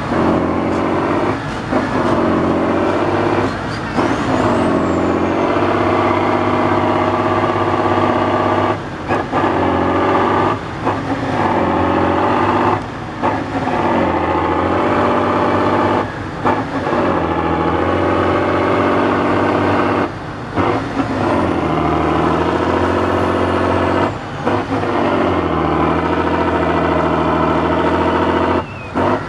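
A Tatra 813 8x8's air-cooled V12 diesel working hard under load. The revs rise and fall, and the sound drops out briefly every few seconds as the throttle lifts or the gear changes.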